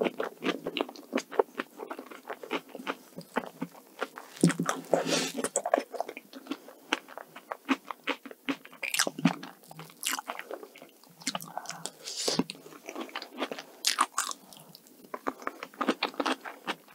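Close-miked chewing of soft chocolate cream cake: wet mouth sounds with a dense, irregular run of small clicks and smacks.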